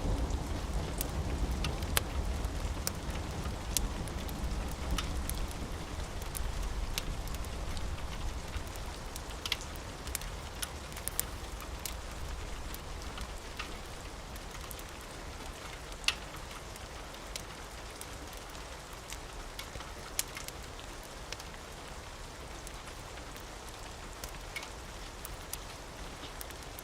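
Steady rain with scattered sharp crackles from a wood fire. The low rumble of a thunderclap dies away over the first few seconds.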